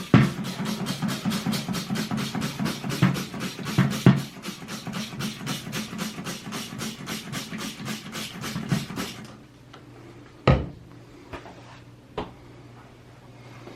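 Rapid, even hand-scrubbing strokes, about four a second, cleaning old residue off the toilet bowl where the tank sat. They stop suddenly about nine seconds in, and a few separate knocks follow.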